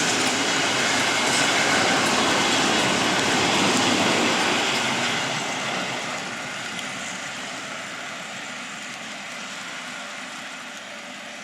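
A train rolling past on the track, a steady rumbling rail noise that fades away from about halfway as it moves off.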